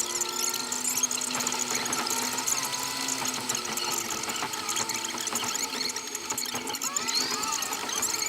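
Vehicle engine making odd whining, squealing noises: several tones that slide up and down in pitch over a steady rattly hiss, with a rising whine about seven seconds in.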